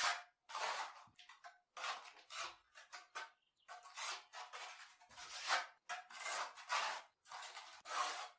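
A series of short scraping, rasping strokes, about a dozen of them at roughly one every two-thirds of a second, as of something being scraped or dug by hand.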